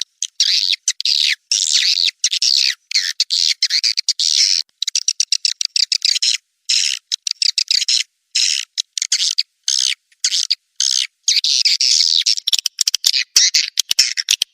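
Swiftlet lure-call recording: rapid, high chirping and twittering of swiftlets, chopped into short bursts with dead silence between them and the low end filtered out. In the last two seconds a quick run of sharp clicks joins the chirps.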